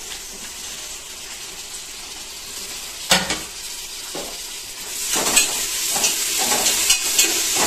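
Tomatoes and green leaves frying in hot oil in a pressure cooker: a steady sizzle, with one sharp knock about three seconds in. Near the five-second mark the sizzle grows louder, and a spoon clinks and scrapes against the pot as stirring begins.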